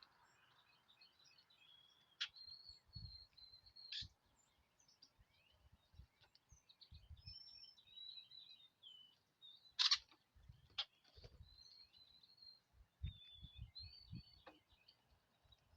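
Small songbirds chirping and twittering faintly in short high phrases throughout. There are several sharp clicks, the loudest about ten seconds in, and scattered soft low thumps.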